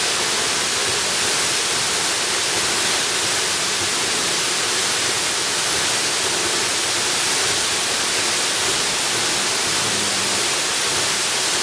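Waterfall: water falling in a steady, even rush, heavy on hiss.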